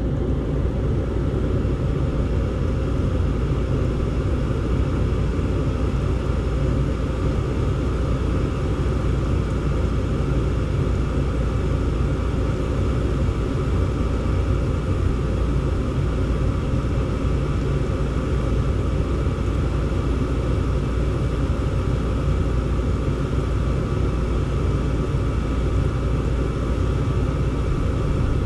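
Gas furnace running: a steady low rumble from the burners and blower, with a faint steady whine over it.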